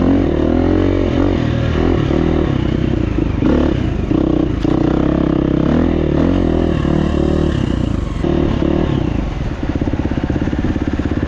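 Dirt bike engine running hard on a trail ride, its revs rising and falling with the throttle, then running more evenly near the end.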